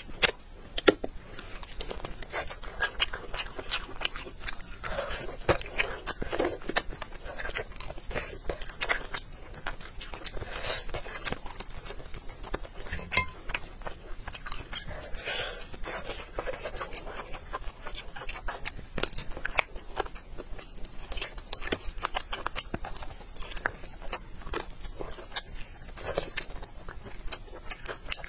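Close-up eating sounds of a person biting, gnawing and chewing grilled meat off a bone, with many irregular sharp crunchy clicks.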